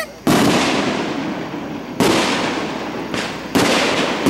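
Aerial firework shells bursting overhead: four booms, the first about a quarter second in, the next about two seconds in, then a fainter and a louder one close together a little past three seconds. Each trails off in a long echo.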